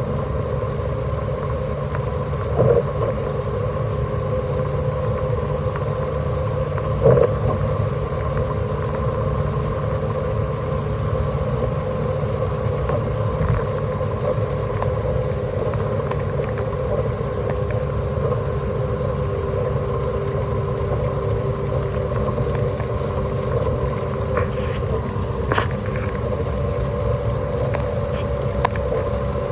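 Steady road and tyre noise inside a car cabin travelling at motorway speed on a rain-soaked road, with a low rumble and a faint steady hum. Two brief thumps stand out, about 3 and 7 seconds in.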